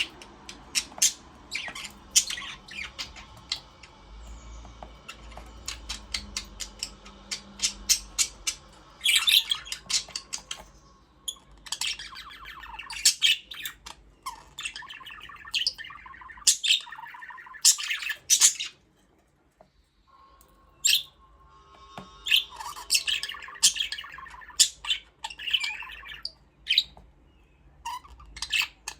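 A flock of budgerigars chattering: many short chirps and squawks overlapping in busy clusters, with a brief lull about two thirds of the way through.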